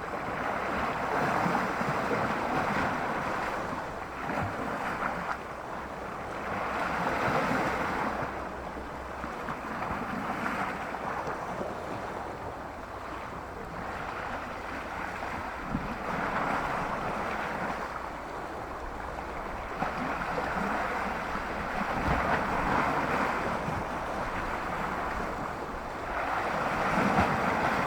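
Sea waves washing in on the shore in slow surges every few seconds, on a slightly choppy sea, with wind rumbling on the microphone.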